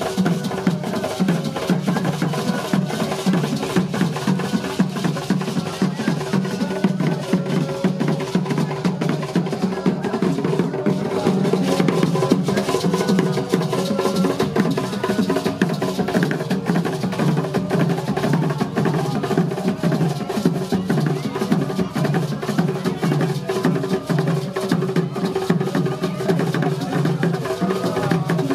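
Drumming with other percussion: dense, fast, continuous strokes, with some sustained pitched sound beneath them.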